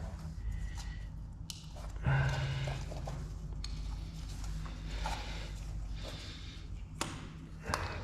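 Light rustling and a few sharp clicks as electrical cables are handled and pulled out of a chiselled recess in a plastered wall, over a steady low hum.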